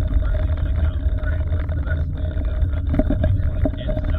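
Car cabin noise while driving: a steady low road and engine rumble with a constant hum.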